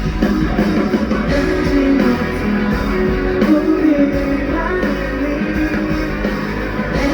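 Live rock band playing, with guitar and a singer's voice over the band.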